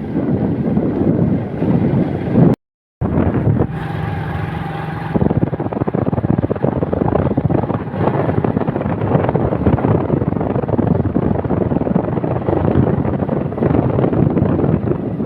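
Wind buffeting the microphone in a loud, fluctuating rumble, cut off completely for a moment about two and a half seconds in. A brief steady pitched tone with overtones sounds for about a second and a half just after the dropout.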